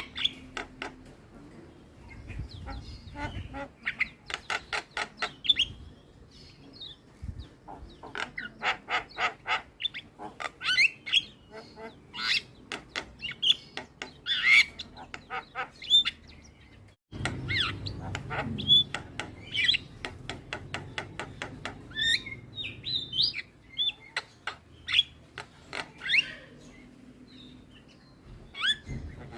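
Javan myna (jalak kebo) calling: quick runs of harsh clicking chatter mixed with short whistled notes, with a momentary break about two-thirds of the way through.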